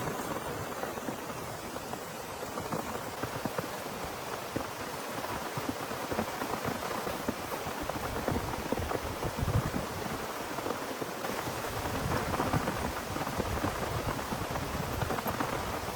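Heavy rain falling steadily with a dense pattering, and low thunder rumbling in through the second half.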